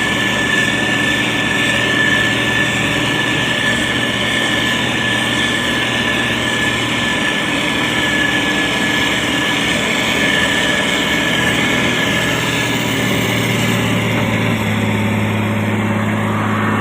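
Diesel engine of a SANY STG190C-8S motor grader running steadily under load while it spreads gravel, with a thin high whine that fades out about three-quarters of the way through; the engine note shifts near the end.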